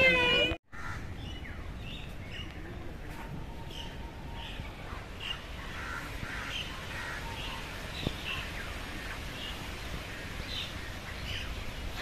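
Birds calling in short, separate calls, roughly one every second, over a steady outdoor background noise.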